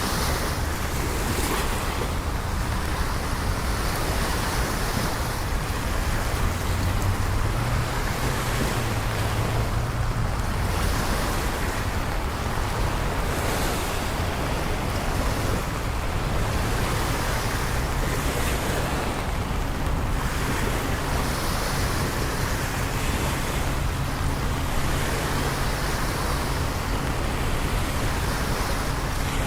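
Steady rain and wet city traffic noise with a low engine rumble underneath.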